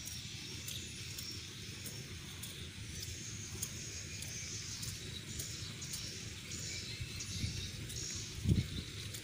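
Swiftlets twittering in high, fluttering chirps, with scattered sharp clicks and a low rumbling noise underneath; a brief low thump near the end.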